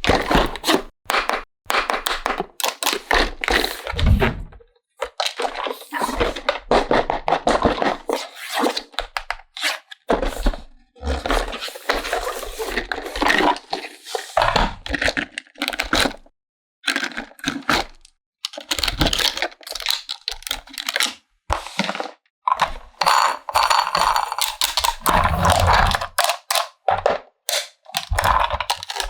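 Plastic toy pieces being handled: irregular clicks, knocks and scrapes in quick succession, with a few short pauses.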